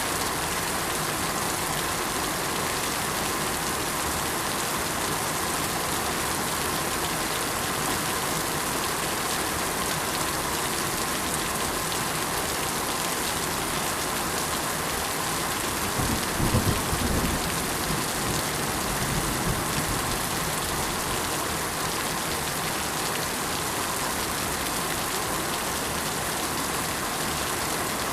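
Steady rain pattering on surfaces. A brief low rumble rises over it about sixteen seconds in and fades a few seconds later.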